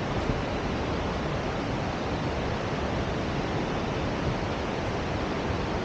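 Steady, unbroken rush of fast-flowing water, a mountain river or waterfall.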